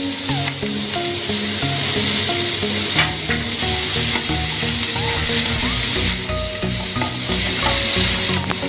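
Onions, capsicum and cashews sizzling as they fry in butter in a pan, stirred with a spatula that clicks against the pan now and then. Background music with held notes runs underneath.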